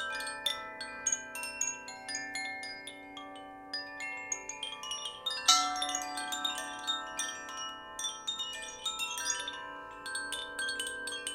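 Wind chimes played in a sound bath: many small metal tones of different pitches struck in quick, irregular succession and left to ring over one another, with a steady low tone underneath. One stronger strike comes about halfway through.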